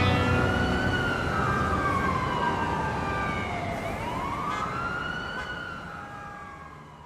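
An emergency vehicle siren wailing, its pitch rising and falling slowly twice, over steady street-traffic noise, fading out near the end.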